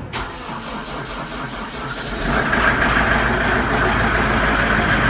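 Case IH Farmall 120C tractor's diesel engine cold-started in sub-zero weather after its glow plugs have cycled: a click, about two seconds of cranking, then the engine catches and runs steadily.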